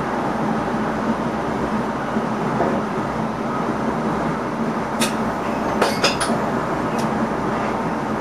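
Running noise of an ICM (Koploper) electric multiple unit heard inside the driver's cab: a steady rumble with a low hum, and a few sharp clicks about five to seven seconds in.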